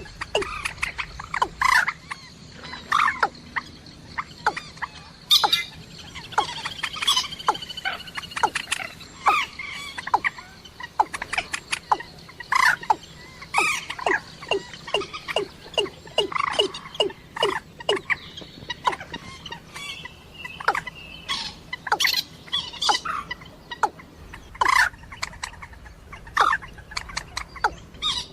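Recorded calls of rails (moorhen and watercock type water birds): many short, sharp calls repeated throughout at an uneven pace, often several a second, some gliding in pitch, used as a hunting lure call.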